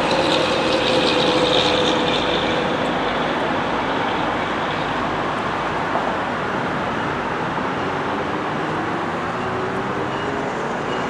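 Train moving through the station: a steady loud rumble with a motor whine that slowly falls in pitch over the first few seconds, and another that rises near the end.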